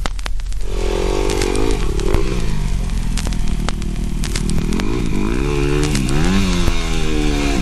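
KXD pit bike engine running and being revved, its pitch rising and falling several times, with quicker blips in the second half.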